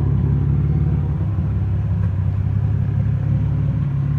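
Nissan 300ZX (Z31) engine idling steadily.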